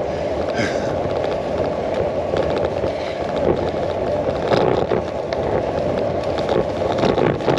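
Bicycle rolling over a rough, bumpy track, picked up by a handlebar-mounted camera: a steady rumble of the tyres on the uneven surface with scattered small rattles and knocks from the bike.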